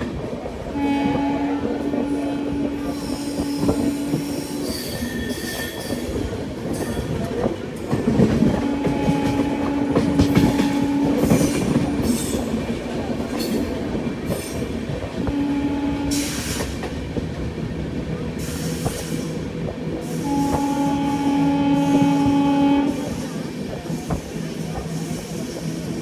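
Locomotive horn of the Sampoorna Kranti Express sounding four times, long, long, short, long, over the steady rumble and clatter of the moving train's wheels on the track, heard from inside a coach.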